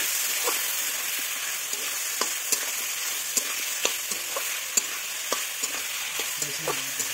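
Pork and pumpkin frying in a steel kadai: a steady sizzle, broken by irregular clicks and scrapes as a spatula stirs the pieces against the pan.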